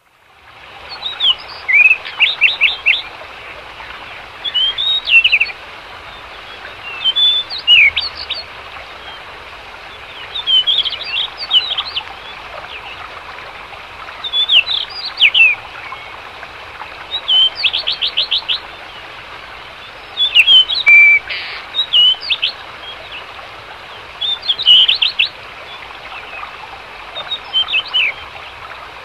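A bird singing short phrases of quick, high chirps, one phrase every two to three seconds, over a steady background hiss.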